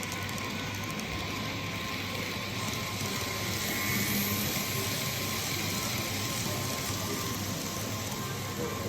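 TOMIX N gauge model train running steadily on the layout's track: an even rush of wheel and motor noise with a faint steady hum.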